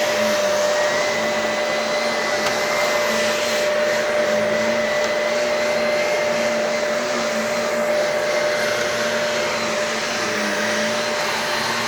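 Shark vacuum cleaner running steadily on carpet, a constant motor whine over the rush of suction air, with slight wavering in pitch as it is pushed and pulled.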